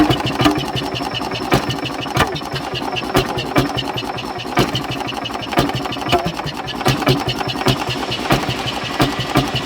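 Fairmont Type C5 railroad speeder engine running, firing in a fast, even rhythm with a sharper bang every second or so.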